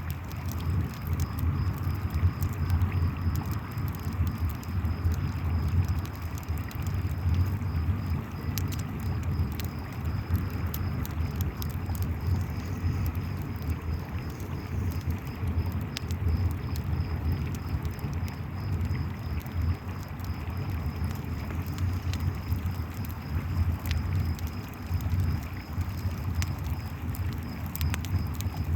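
Crackling campfire with frequent sharp pops over the steady low rush of a flowing river, which is the loudest part, and crickets chirping in a steady high trill.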